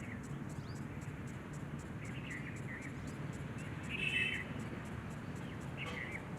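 Small birds chirping in short, broken phrases, four times, the loudest a little past the middle, over a steady fast high ticking of about four a second and a low background rumble.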